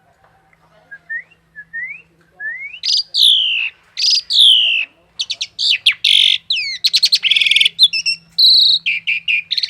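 A male 'JU' songbird singing: a few soft rising whistles, then loud falling whistles, building about halfway through into a fast, varied run of chirps, trills and whistles.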